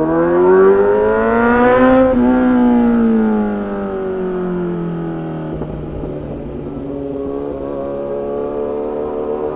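Motorcycle engine under way: its pitch rises for about two seconds as it accelerates, falls as the throttle eases, and settles into a steady cruise about halfway through.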